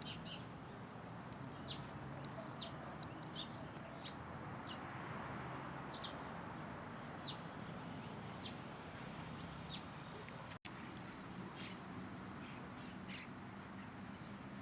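A bird calling: short, high, down-slurred chirps repeated roughly once a second over a steady background rumble. The sound drops out for an instant about ten seconds in.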